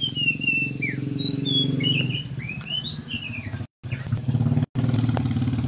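Small birds chirping: a quick run of short, high chirps over the first three seconds, above a low steady hum. The sound cuts out completely twice for a moment.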